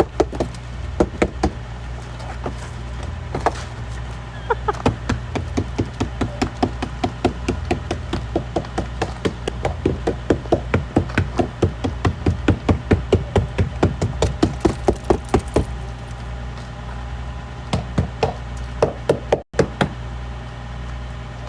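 Hammer knocking repeatedly on an iced-up car door, quick blows about two or three a second, with a lull near the end followed by a few more. A steady low hum runs underneath.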